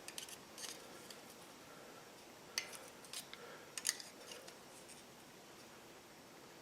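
Faint metallic clicks and light scrapes of scrolling pliers curling the hot end of a #16 horseshoe nail into a pigtail scroll. The clicks come in a scattered handful, the sharpest about two and a half and four seconds in.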